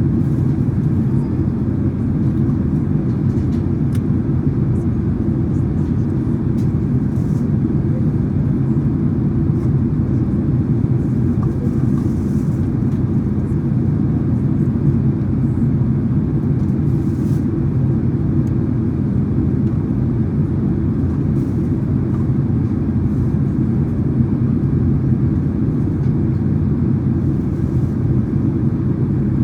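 Steady low cabin drone of a Boeing 767-300ER in flight, heard from a seat toward the rear of the cabin: engine and airflow noise, even and unchanging, with a few faint ticks.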